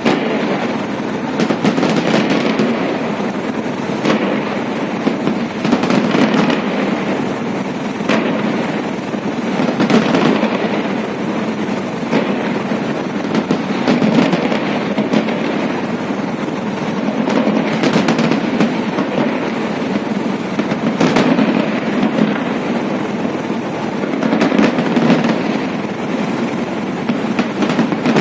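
Fireworks salute: shells bursting in sharp bangs every second or few, over a continuous crackle and rumble of the display.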